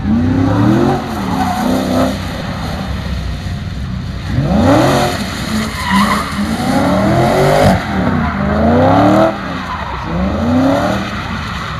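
Ford BA Falcon XR8's V8, fitted with 4-into-1 extractors and a twin exhaust, revving hard in repeated rising and falling surges as the car drifts, with its tyres skidding on the wet pad.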